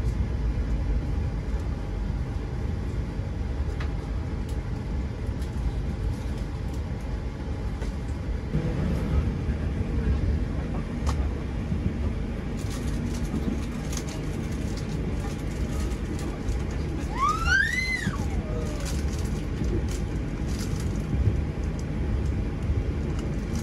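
Running noise of the Argo Dwipangga executive train in motion: a steady low rumble, with light clicks in the second half and one short tone that rises and falls about eighteen seconds in.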